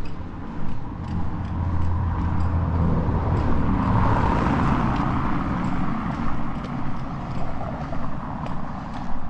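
A car passes along the street, its engine hum and tyre noise swelling from about a second in, loudest near the middle, then fading. Footsteps on the pavement tick along at a walking pace throughout.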